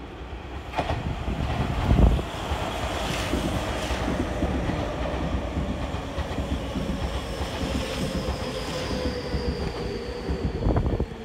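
Tokyu electric commuter train (set 5121F) passing directly below, a steady rumble and wheel clatter that is loudest about two seconds in as the front goes under. Thin high whines slowly fall in pitch as it runs past, and a few sharp clacks of wheels over rail joints come near the end.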